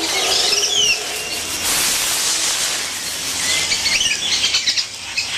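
Amazon rainforest ambience: a dense hiss with a steady high insect drone. There are a few falling whistled calls in the first second, and a burst of quick high chirps in the second half.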